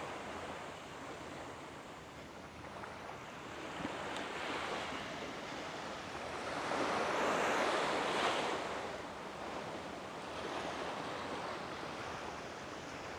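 Small waves washing up on a sandy beach, the wash swelling and fading every few seconds and loudest about eight seconds in, with a little wind on the microphone.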